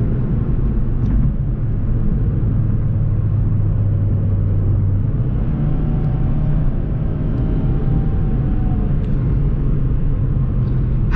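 Car engine and road noise heard from inside a moving car: a steady low drone whose pitch steps up about halfway through.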